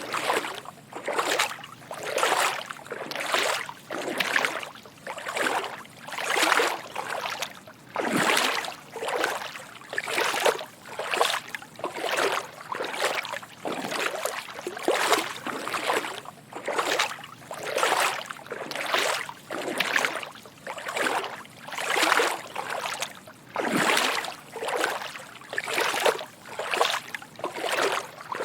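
Footsteps wading through shallow water: a steady rhythm of soft sloshes and splashes, about one or two a second, as each foot pushes through and lifts out of the water.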